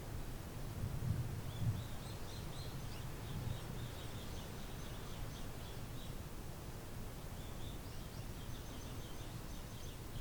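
A small bird calling in quick runs of short, high chirps over a steady low rumble of strong wind, which swells about a second in.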